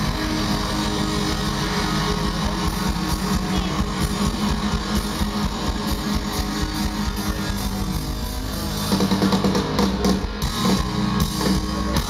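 Live punk rock band playing loud distorted electric guitars, bass and drums. About nine seconds in, the sound turns choppier, with separate hits.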